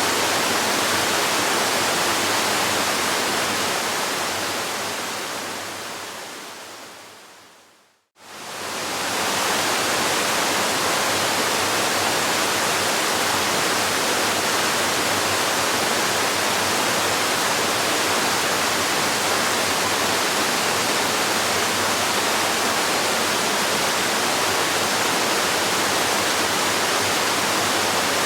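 Recorded waterfall: a steady, even rush of falling water. It fades slowly away over several seconds to a brief moment of silence about eight seconds in, then quickly swells back to full strength, the seam where the recording loops.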